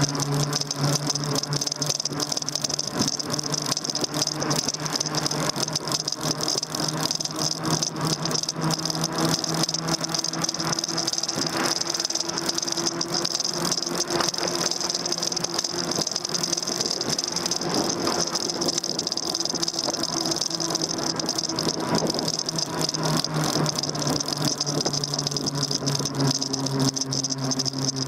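Continuous rattling of a Daymak Max e-bike and its handlebar-mounted camera gear while riding, with a steady electric whine running underneath.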